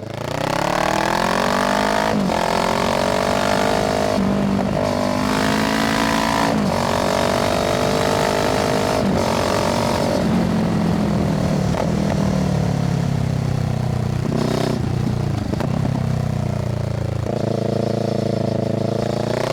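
A Kawasaki Z650's parallel-twin engine running through an IXIL aftermarket exhaust, accelerating through the gears. The engine note climbs between short breaks at each upshift, then falls as the throttle eases off, and picks up again near the end.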